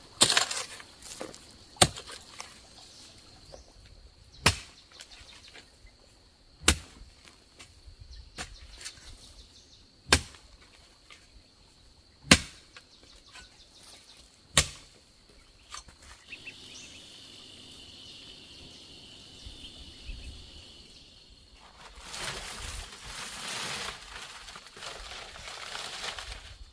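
Sharp single blows of a tool striking bamboo, seven of them spaced about two seconds apart, then a few seconds of steady rushing noise near the end.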